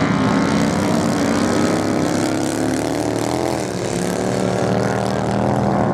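Several racing motorcycle engines running hard at once. About halfway through, one engine's pitch drops and then climbs again as its throttle is eased and reopened.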